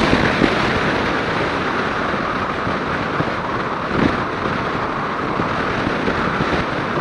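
Steady wind rush and buffeting on the microphone of a motorcycle riding in a strong crosswind, with riding noise underneath, on a Suzuki Inazuma 250.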